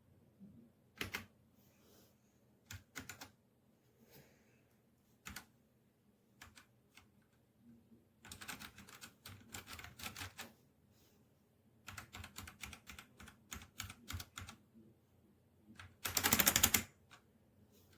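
Keys being typed on a Redragon K617 Fizz 60% mechanical keyboard: scattered single key clicks, then two runs of quick keystrokes, and a short, louder burst of rapid clatter near the end.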